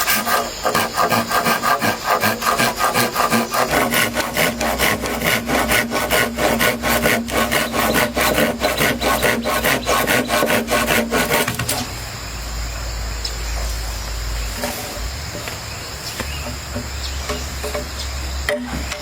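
Fast, even scraping or rubbing strokes, about four a second, that stop about twelve seconds in. A steady low hum and faint hiss are left after they stop.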